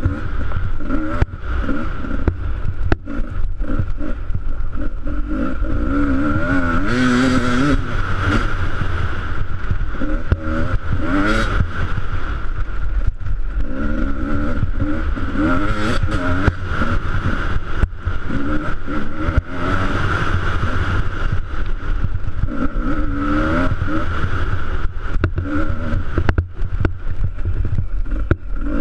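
Enduro motorcycle engine under hard riding, its revs repeatedly climbing and dropping as the rider accelerates and backs off along the trail, over a strong low rumble and a steady whine.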